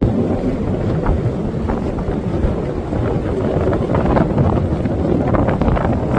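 Strong wind buffeting the microphone in a steady low rumble: the outflow wind blowing ahead of a thunderstorm's shelf cloud.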